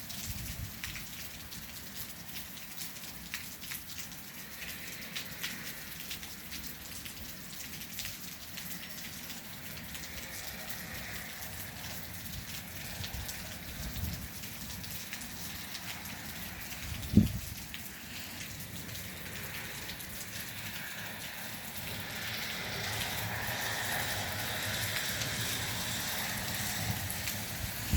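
Steady rain falling, a constant patter of drops that grows heavier over the last several seconds. There is one brief dull thump about two-thirds of the way through.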